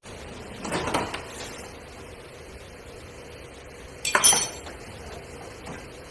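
Metal objects clattering and clanking against each other: a short bout of clinks about a second in, and a louder, sharper clank about four seconds in.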